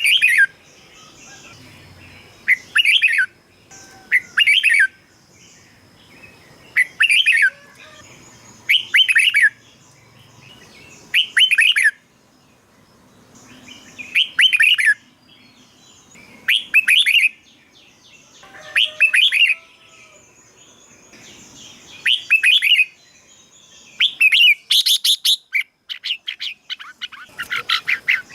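Red-whiskered bulbul singing: short, loud phrases of quick gliding notes, repeated about every two seconds, coming faster and running together near the end.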